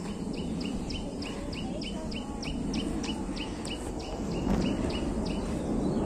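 A bird calling in a rapid, even series of short, falling high chirps, about four a second, over a steady low rumble.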